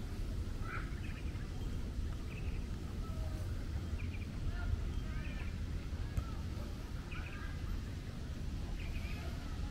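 Birds chirping, many short calls scattered throughout, over a steady low rumble.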